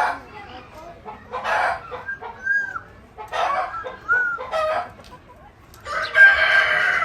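Chickens calling in short bursts, then a rooster crowing in one long call near the end.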